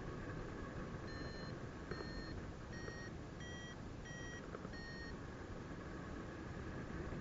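Paragliding variometer beeping: about six short, high beeps in a steady cadence, with the pitch shifting slightly from beep to beep, the vario's signal of climbing in lift. Steady wind rush on the microphone underneath.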